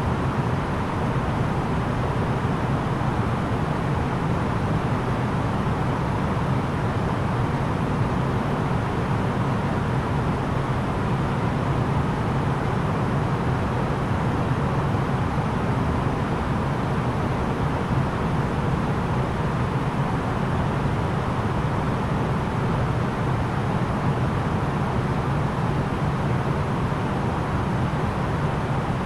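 Steady in-flight cabin noise of an Airbus A330-900neo: a deep, even hum of its Rolls-Royce Trent 7000 engines and airflow, with a faint steady whine.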